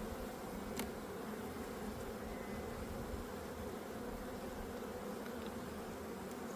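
Steady buzzing hum of a honey bee colony in an open hive, with a single light click about a second in.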